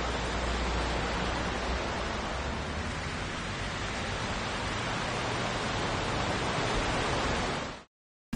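A steady, even rushing hiss with a low rumble underneath, like wind or field noise on the microphone. It cuts off sharply a little before the end.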